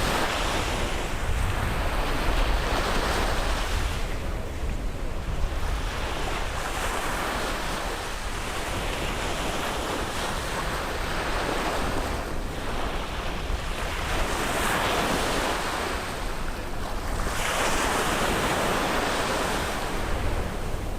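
Caribbean sea waves breaking and washing up on a beach, the surf swelling and falling back every few seconds, over a steady low rumble.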